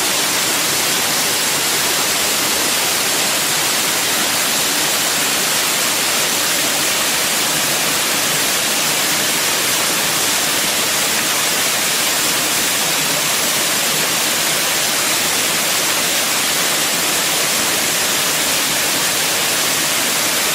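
Ōdaru Falls, a waterfall, heard close up: a loud, steady rush of falling water, mostly high and hissing, with little low rumble.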